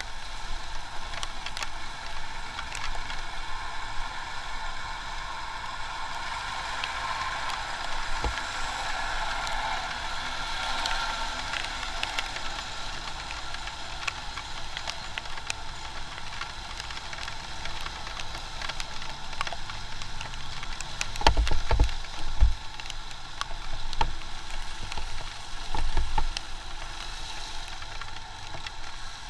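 Steady hiss of rain and wet-road noise heard from a moving motorcycle, with a few low thumps, mostly in the second half.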